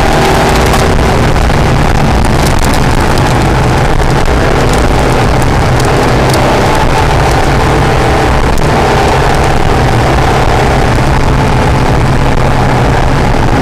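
Acura NSX's V6 engine running hard on track, a loud, steady engine note.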